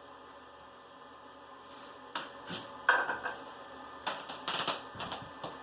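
Light clattering and knocking of small hard objects being handled, a dozen or so irregular clicks and knocks starting about two seconds in, over a faint steady hum.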